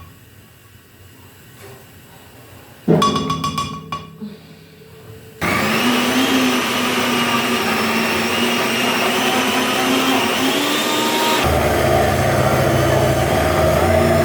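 A few knocks and clinks of the blender jar about three seconds in, then the blender motor starts about halfway through and runs steadily, blending a thick sweet potato brownie batter. Near the end its sound changes to a lower, heavier running.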